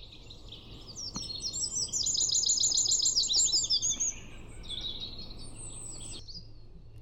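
Eurasian wren singing one long, loud song of rapid, high repeated notes and trills, loudest in the middle and stopping about six seconds in.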